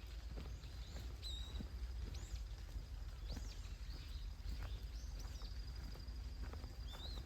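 Birds outdoors giving short, high, arched chirps about once a second over a low rumble, with a faint steady high trill behind them.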